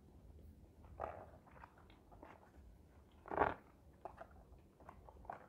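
Faint chewing of a bite of Richeese fried chicken, soft mouth noises with a brief louder noise about three and a half seconds in.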